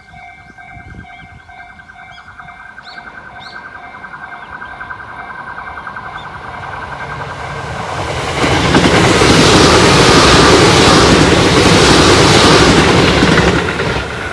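A Tobu 8000-series electric train approaching and then passing close by on ballasted track. Its running noise builds gradually, becomes a loud rush from about eight seconds in, and drops away sharply just before the end. Under the approach, a steady ringing tone with a fast beat and a few bird chirps.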